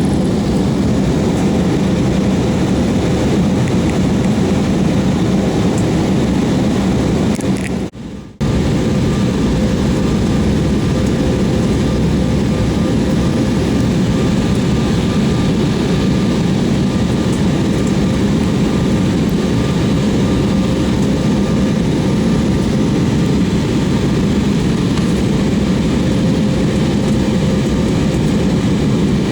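Steady drone of an airliner's engines and airflow heard from inside the passenger cabin in flight, with a faint constant hum. The sound drops out briefly about eight seconds in.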